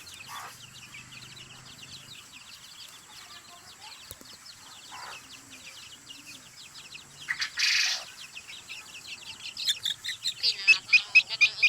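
Chickens: rapid high chirping throughout, with a brief rustle about eight seconds in and louder, faster chirping over the last couple of seconds.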